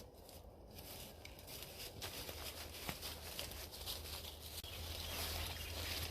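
Rustling and crunching in dry leaf litter and brush, growing steadily louder, with scattered small snaps and ticks.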